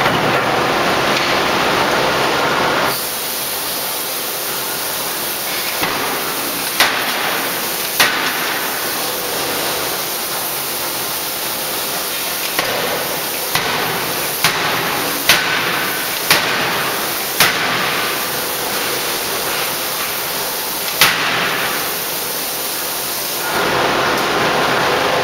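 A 3-ton electro-hydraulic closed-die forging hammer striking: about nine sharp blows at uneven intervals over a steady noise of shop machinery.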